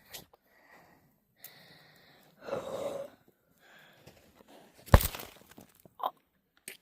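Heavy breathing with gasps, and a sharp thump about five seconds in.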